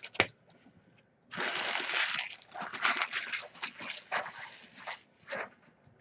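Paper or foil card-pack wrappers being torn and crinkled, with a rough rush of rustling a little over a second in, then scattered crackles and clicks.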